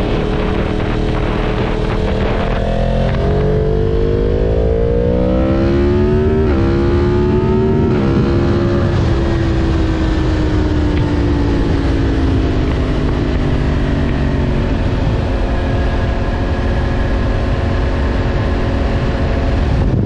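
A 2023 Yamaha MT-10's crossplane inline-four, breathing through a Leo Vince mid pipe and the factory muffler, accelerates hard. Its pitch climbs and snaps down twice on quick upshifts, then slowly falls as the bike rolls off and slows before settling to a steady cruise.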